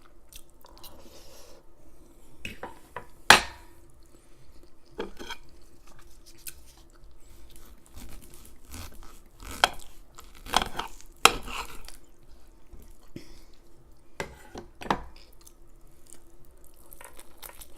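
Cutlery clinking and scraping against a dish during eating: irregular sharp clinks, the loudest about three seconds in and a cluster of them later on.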